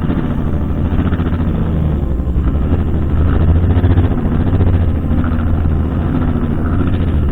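Brushcutter engine running steadily, its note swelling slightly now and then.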